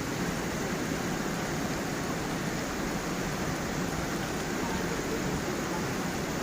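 Water of a forest stream running over stones and a small waterfall, a steady, even rush.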